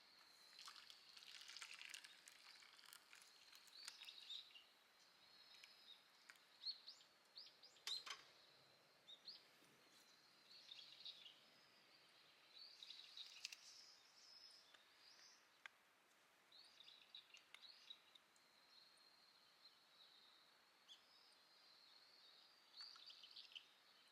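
Faint birds chirping in short, scattered calls, with a few light clicks in between.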